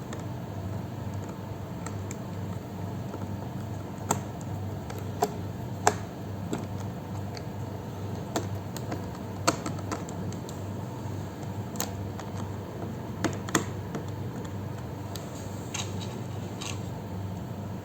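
Scattered sharp clicks and taps of small hard objects, at irregular intervals over a steady low hum.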